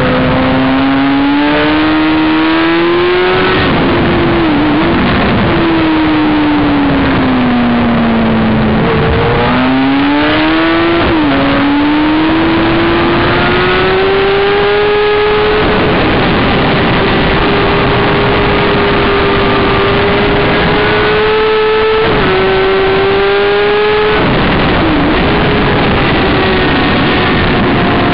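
Sport motorcycle engine at track speed, picked up by an onboard camera: its note climbs under throttle, drops sharply at upshifts and falls away smoothly when braking into corners. Heavy wind noise on the microphone runs under it.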